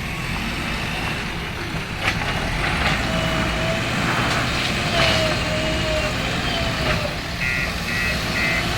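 Heavy diesel machinery running with a steady low rumble and a couple of sharp knocks, and near the end a reversing alarm starts beeping in short pulses, about three a second.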